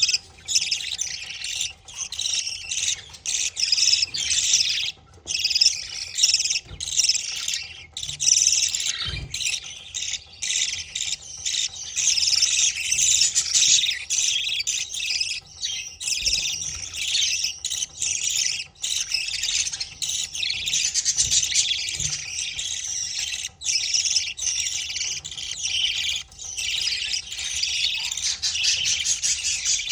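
Budgerigars chirping and chattering without a break, a dense high twittering, as the albino adult male feeds his chicks. A few soft low thumps come through it.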